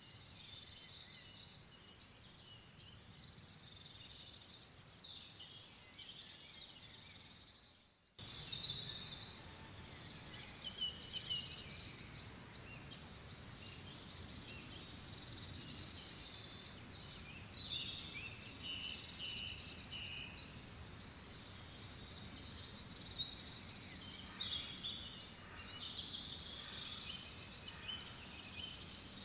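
Several songbirds chirping and singing over a faint steady outdoor background. The sound drops out briefly about eight seconds in, then resumes with more birds. A run of loud, rapid trills comes about two-thirds of the way through.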